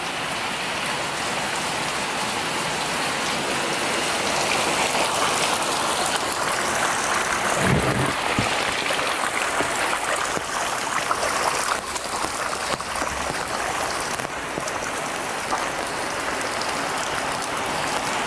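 Steady tropical rain falling and pattering on a plastic sheet held over the camera, with a dull low knock about eight seconds in.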